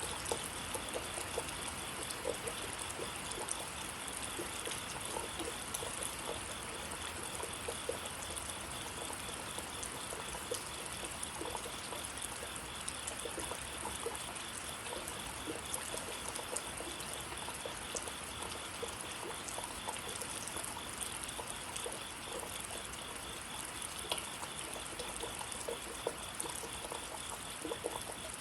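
Steady rain falling, with many small drips and patters. A faint, high, evenly pulsing chirp runs underneath throughout.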